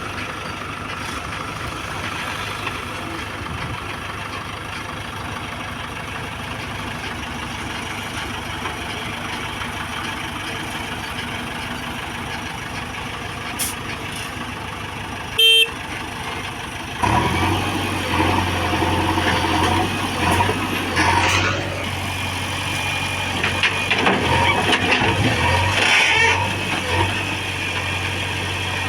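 Heavy diesel engine running at a work site, with a short horn-like beep about halfway through; about two-thirds in, the engine comes in louder and steadier, idling with a low hum.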